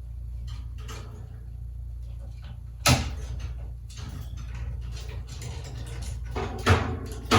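Two sharp knocks over a steady low hum, one about three seconds in and a louder one near the end, with faint scattered clicks between them.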